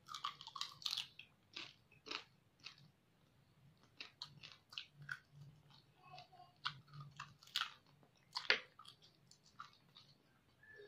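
A person chewing and biting a mouthful of crispy pata (deep-fried pork knuckle), with irregular crunches. One sharper crunch comes about eight and a half seconds in.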